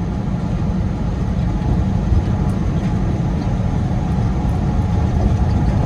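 Steady low drone of a Peterbilt 389 semi truck heard from inside the cab while driving: engine and road noise.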